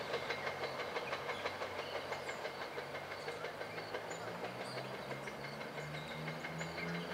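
SEPTA Regional Rail electric train running away along the track, its wheels clicking regularly over the rails as it recedes, with a low steady hum that grows a little stronger near the end.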